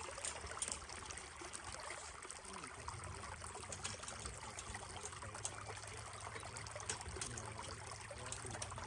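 Creek water flowing and trickling steadily, with a low rumble joining about three seconds in.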